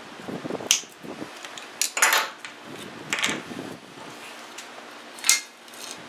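Hand tools and small metal parts being handled, a handful of separate sharp clinks and short clatters a second or so apart.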